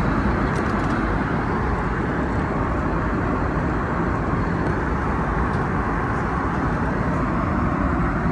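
Steady, even roar of an Airbus A321neo cabin, engine and airflow noise.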